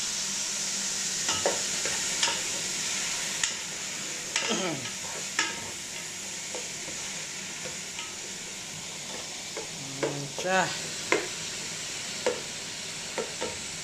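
Cubed pork, onion and garlic sizzling steadily in hot oil in a pot while being sautéed, with a spatula knocking and scraping against the pot now and then as it is stirred.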